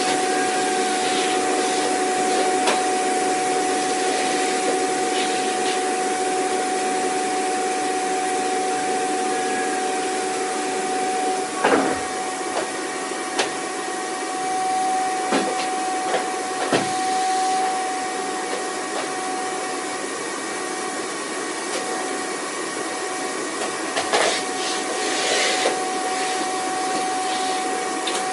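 Vacuum cleaner running steadily: a rushing of air under a constant motor whine. A few sharp clicks and knocks come through in the middle and again near the end.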